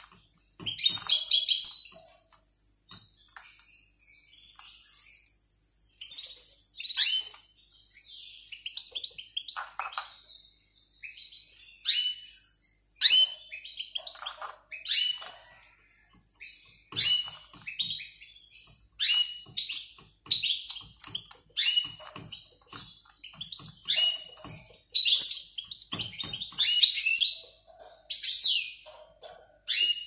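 Small cage birds chirping: short, sharp high-pitched calls repeated about every one to two seconds.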